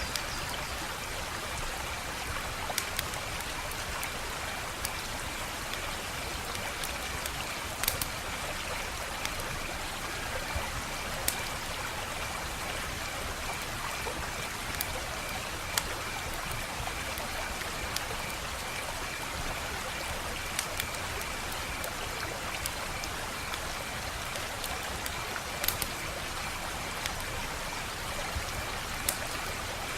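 Wood fire crackling: a steady hiss broken by scattered sharp pops and snaps at irregular moments, with a faint steady high pulsing tone underneath.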